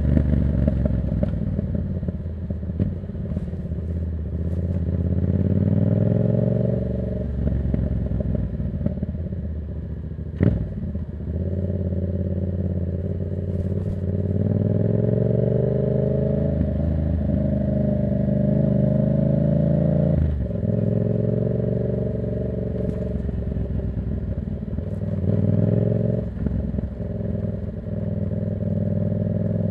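Yamaha MT-07's 689 cc parallel-twin engine running through a Black Widow exhaust with no dB killer, under way. Its pitch climbs and drops again several times as the throttle is opened and rolled off. There is a sharp crack about ten seconds in and a fainter one about twenty seconds in.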